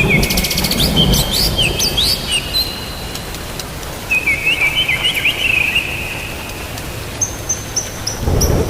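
Songbird chirps and short warbling phrases over a steady hiss of rain. Near the end comes a quick row of about seven high, evenly spaced notes, and a low rumble swells in just before the end.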